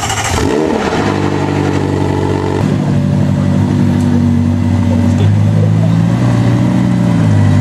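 A car engine running at low revs, its pitch holding steady and then shifting in steps a few times as it changes speed.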